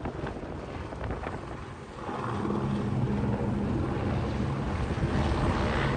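A passing vehicle's engine drone, rumbling at first and then, about two seconds in, growing louder into a steady low hum, with wind on the microphone.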